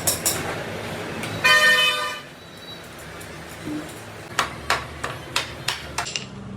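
A vehicle horn sounds once, loud and lasting under a second, followed a couple of seconds later by a run of sharp knocks, about three a second.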